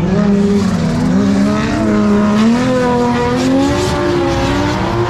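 Drift car's engine revving hard while sliding, its pitch climbing and falling again and again as the throttle is worked.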